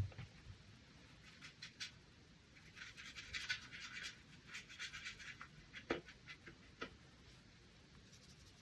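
Faint scratchy strokes of a watercolor brush on paper, coming in a few short runs, with a couple of light taps.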